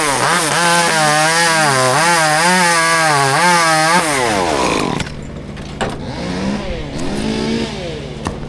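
Chainsaw cutting hackberry wood at full throttle, its pitch wavering as the chain loads in the cut. About four seconds in the pitch falls away as the throttle is released, and the saw settles to a lower, steady running sound with one short rev up and down near the end.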